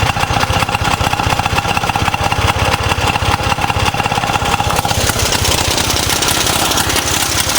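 1926 Jawa motorcycle engine running steadily on the bench with rapid, even firing pulses. Its tone changes slightly about five seconds in.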